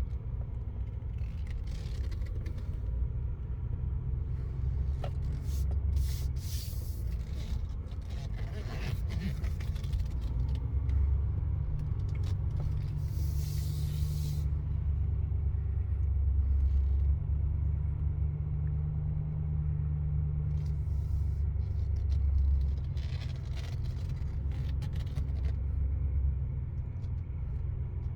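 6.6-litre Duramax turbo-diesel V8 of a 2019 Chevrolet Silverado 3500HD running while the truck drives slowly: a steady low rumble that grows louder for about ten seconds in the middle, with brief bursts of hiss now and then.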